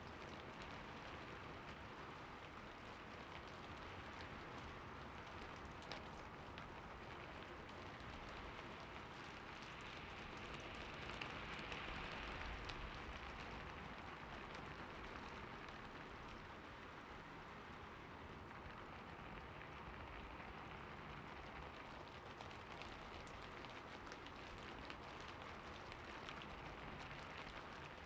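Steady rainfall: an even hiss with many small drop ticks, swelling slightly louder about ten to thirteen seconds in.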